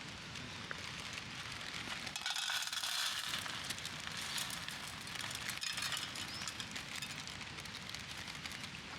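Small wood fire crackling in a fire pit: a steady hiss with many fine crackles, slightly louder for a second or so a couple of seconds in.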